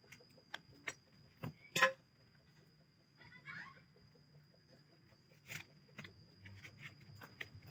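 Scattered sharp clicks and knocks, the loudest about two seconds in, with a short rustling scrape about three and a half seconds in, over a faint steady high-pitched tone.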